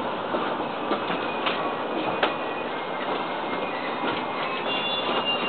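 Electric commuter train rolling slowly into a station, heard from inside the carriage: a steady running noise of wheels on rail with a few sharp clicks, and faint high tones setting in near the end as it brakes.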